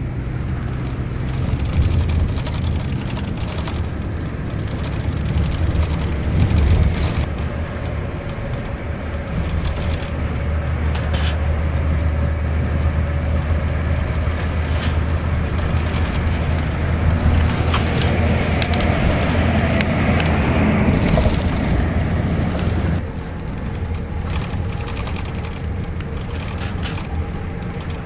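Scania K410iB bus diesel engine running under way, a steady low drone with scattered rattles and clicks. The drone grows louder partway through and drops off suddenly near the end, as if the throttle is lifted or a gear is changed.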